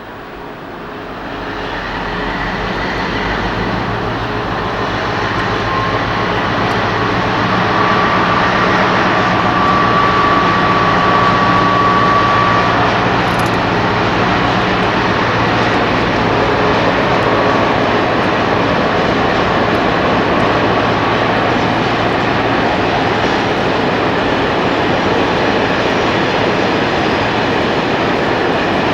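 BR Class 60 diesel locomotive's Mirrlees engine running with a heavy, steady drone, growing louder over the first several seconds and then holding steady. A thin high whine sounds over it for a few seconds in the middle.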